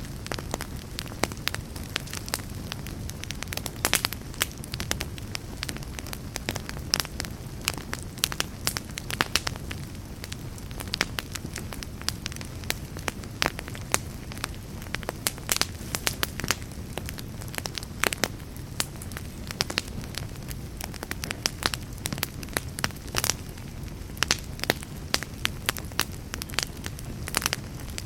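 Wood fire burning in a fireplace, with frequent sharp crackles and pops from the burning logs over a steady low rumble of flame.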